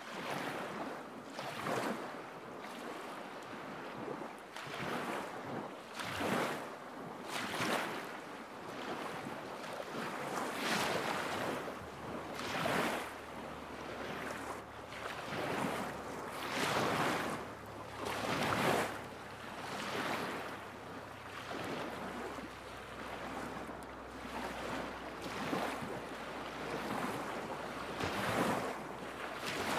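Small lake waves lapping against the shore, a soft wash coming in every second or two.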